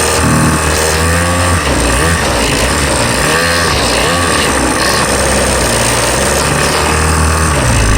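Small petrol engine of a motorbike or kart running under way, its pitch rising and falling again and again as the throttle is worked, with wind and road noise over it.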